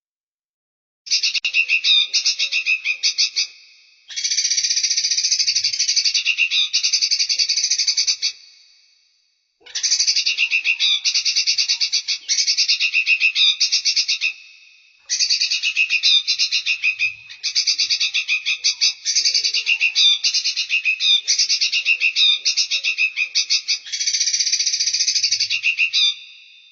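Recorded songbird song played as a bird-training master track: fast, buzzy trills in runs of several seconds that start and stop abruptly, with brief silences between runs.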